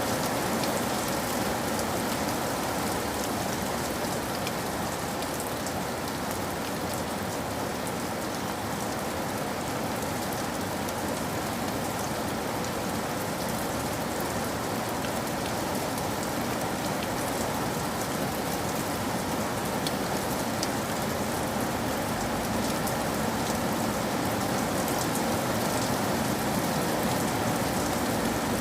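Steady rain falling on a surface, an even hiss of many drops with faint scattered drop ticks.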